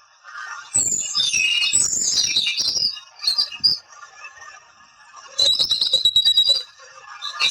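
Birds calling in two bursts of rapid, varied chirps and whistles: one from about a second in lasting some two seconds, and a quick run of repeated notes near the end, over a faint steady background chorus.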